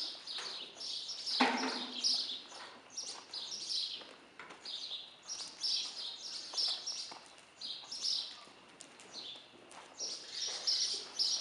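Small birds chirping: a steady run of short, high chirps, several a second. About a second and a half in there is a brief, louder and lower sound.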